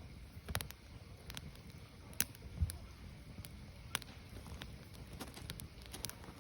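Firewood burning: irregular sharp crackles and pops, the loudest about two seconds in, over a low steady rumble of the fire.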